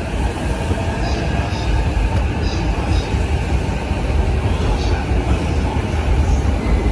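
Steady rumble of trains at a station platform, with a few faint short high tones about one, two and a half, three and five seconds in.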